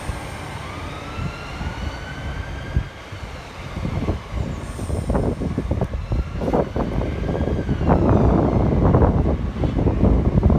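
Electric multiple unit train: its traction motors whine, rising in pitch over the first few seconds, then a low rumble and wheel-on-rail clatter build up and grow louder as the train comes through.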